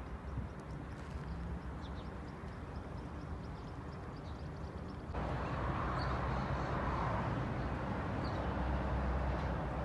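Outdoor ambience: a low rumble with faint short chirps. About five seconds in, a louder steady rushing noise sets in and cuts off suddenly near the end.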